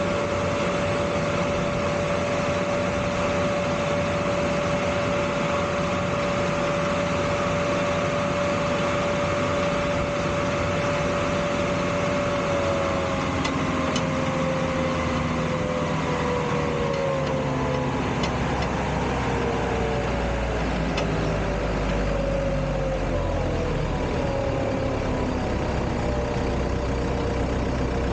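Engine noise on the ramp during an Embraer 175's pushback: a steady high whine over a rumble. About halfway through the whine starts to waver and slide lower in pitch, and a deeper rumble builds near the end.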